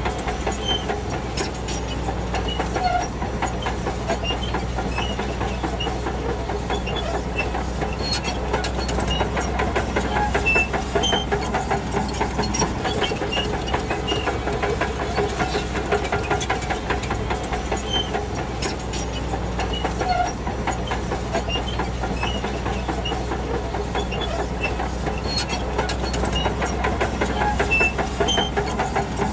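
Shantui DH17 C2 crawler bulldozer working: its diesel engine runs at a steady drone under a constant clatter of steel tracks, with small high squeaks from the track links.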